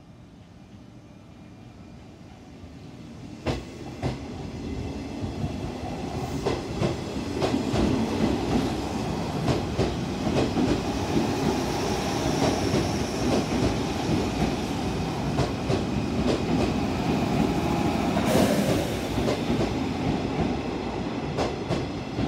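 JR West 201 series electric train running in alongside the platform. Its running noise grows from about three seconds in, with the wheels clicking over rail joints, and a short sharp hiss comes near the end.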